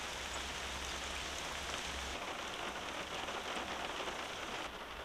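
Heavy rain falling steadily on a car, a dense patter of drops on the roof and windows heard from inside the cabin.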